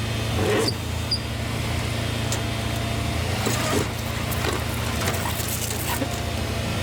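Tow truck engine running steadily at a low, even hum, with scattered light clicks and creaks over it.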